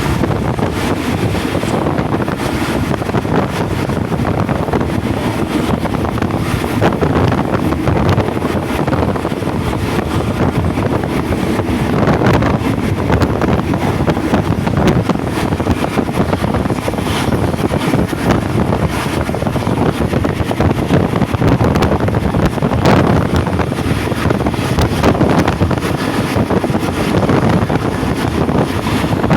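Passenger train running at speed, heard from aboard: a steady rumble of wheels and carriage with frequent rattling clacks, and wind buffeting the microphone.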